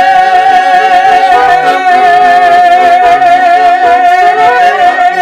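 Garmon accompaniment to a Russian folk song: one long held note wavering slightly, over rhythmic bass and chord notes.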